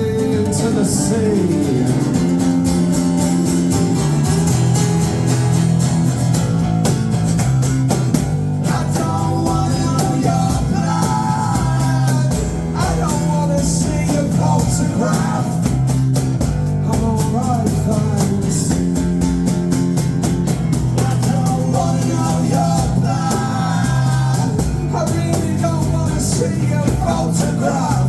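Live rock band playing: guitars and bass over a drum kit, with a wavering melodic line over the top from about a third of the way in.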